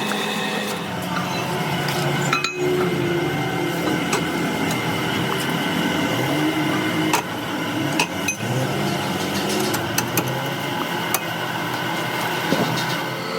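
Metal-working machinery running with a steady hum, with sharp metallic clinks and taps now and then.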